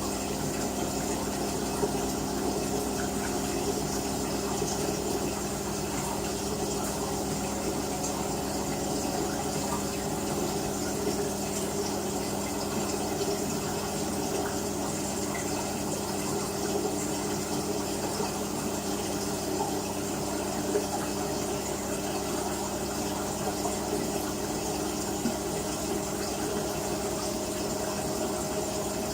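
LG WT-R852 direct-drive top-loading washing machine running mid-cycle: a steady hum with water rushing through it.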